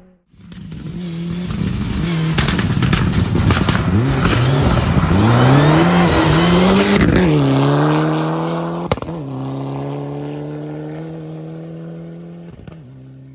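Rally car on a gravel stage coming in hard, the engine revving up and down through quick gear changes with crackling pops. It passes loudest about seven seconds in, then pulls away at a steady pitch and fades, with a sharp crack about nine seconds in.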